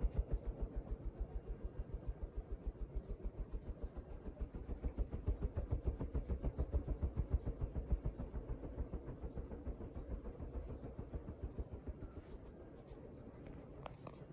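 Two-bladed NuTone Decorator ceiling fan running on high, its blades pushing air in a rhythmic whoosh of about five or six pulses a second. The pulses weaken over the last few seconds.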